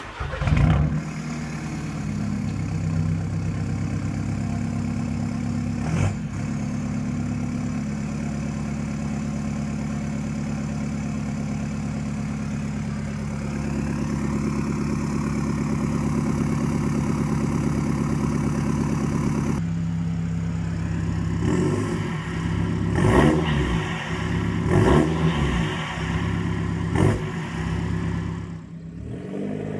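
A 2013 Volkswagen Passat TDI's 2.0-litre four-cylinder diesel, straight-piped with the DPF and rear muffler deleted, fires up with a brief flare and settles into a steady idle. In the last ten seconds it is blipped four or five times in short revs that rise and fall.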